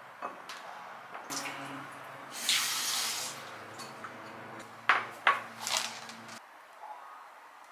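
Tap water running briefly into a sink for about a second, followed by a few sharp clicks and knocks of handling.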